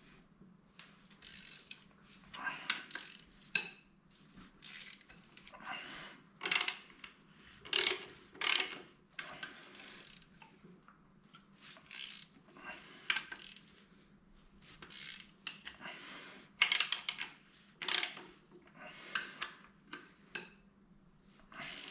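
Metal hand tools and engine parts clinking and clanking in irregular knocks while an engine is being stripped down.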